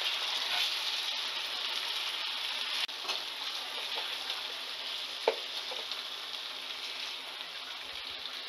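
Stuffed-brinjal masala curry sizzling steadily in oil in a kadhai while a metal ladle stirs it, the gravy cooked down with its oil separating. A sharp clink of the ladle against the pan comes about five seconds in.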